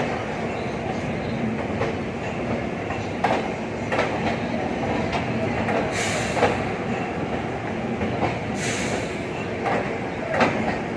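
Train running along the track: a steady rumble with irregular sharp clacks from the wheels over rail joints, and two brief hisses near the middle.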